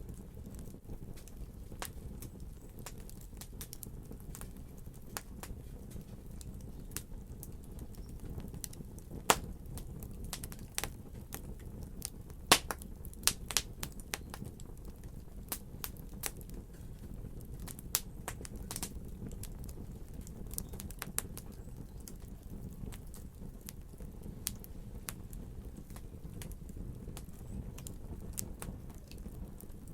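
Wood fire burning in a fireplace: a low steady rumble with irregular sharp crackles and pops, a cluster of louder pops about halfway through.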